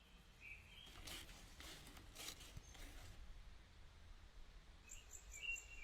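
Faint woodland ambience: short bird chirps at the start and again near the end, with a few soft rustles about one to three seconds in.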